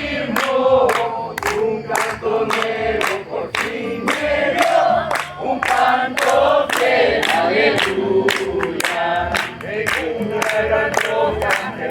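Congregation singing a hymn together in Spanish, kept in time by a steady beat of sharp strokes about two to three a second.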